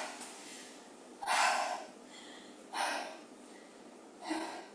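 A woman breathing hard, three loud breaths about a second and a half apart, catching her breath after a minute of all-out cardio hopping.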